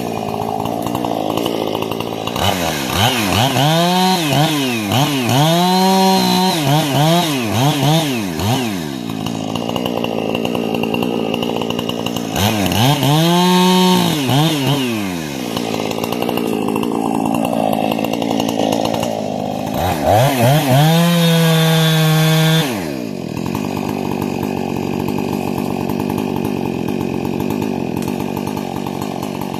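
Husqvarna 460 two-stroke chainsaw, with a modified carburetor and modded muffler, idling and being blipped to high revs several times in quick succession, then revved once more. Later it is held at steady high revs for about two seconds before dropping sharply back to idle.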